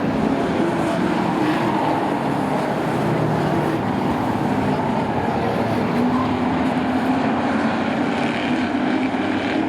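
Race truck engines running at speed around a short oval track, several engine notes overlapping and shifting in pitch as the trucks pass.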